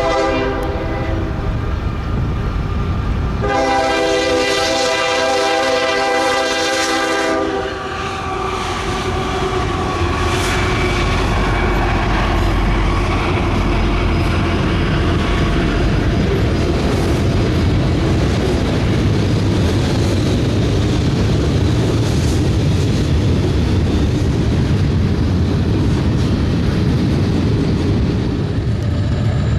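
Diesel locomotive's multi-chime air horn sounding: a blast that ends about a second in, then a long blast of about four seconds. After that the train rolls by with a steady rumble and wheels clicking over rail joints.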